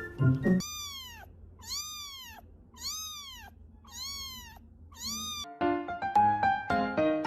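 A cat meowing five times in a row, each high call rising and then falling, about a second apart. Music plays briefly at the start and comes back near the end.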